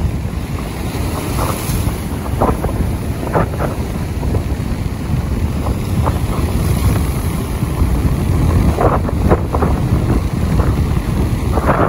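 Wind and rain, the wind buffeting the microphone in a heavy low rumble, with short gusty flurries coming and going every second or two.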